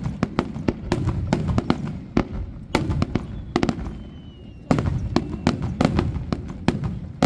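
Rapid barrage of aerial fireworks: sharp cracks and booms, one after another, with a rumbling echo between them. The bursts thin out for a couple of seconds in the middle, then come thick again.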